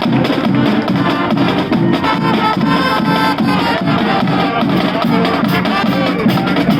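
High school marching band playing a tune over drums.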